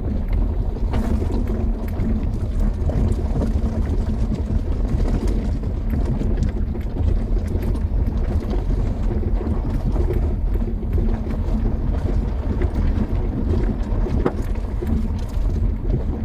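Car driving over a loose riverbed track: a steady low rumble of engine and tyres, with scattered faint clicks.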